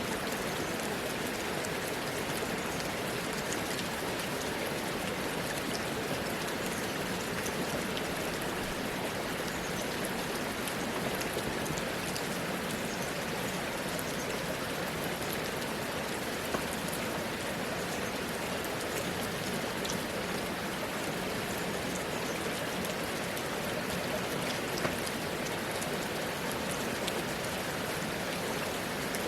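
Steady rain falling, a constant hiss with scattered drop ticks on hard surfaces. A couple of slightly louder drips stand out about two-thirds of the way through and near the end.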